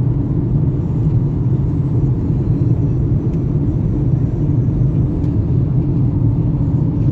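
Steady low road and engine rumble inside a Jeep's cabin while it drives at speed.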